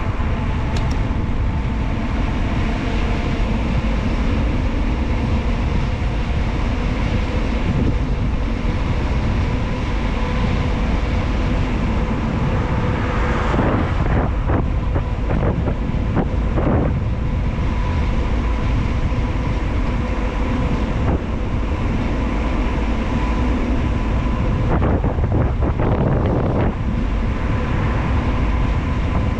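Loud, steady wind rush on the microphone of a bicycle descending a paved mountain road at speed. The noise swells briefly a few times in the second half.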